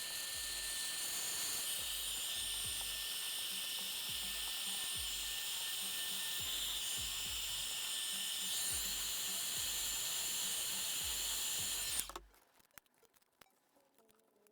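High-pitched power tool, drill-like, running steadily with a constant whine, then cutting off abruptly near the end, followed by a few small clicks.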